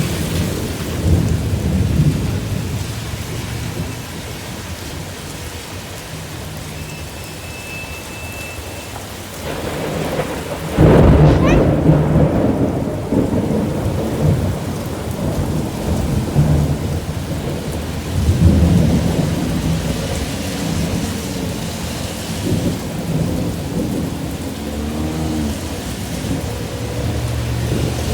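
Heavy storm rain falling steadily, with deep rumbling underneath; the loudest rumble starts suddenly about eleven seconds in, and another swells about eighteen seconds in.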